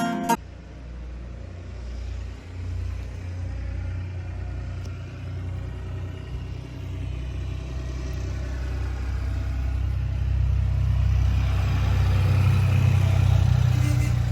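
A steady low rumble that slowly grows louder toward the end.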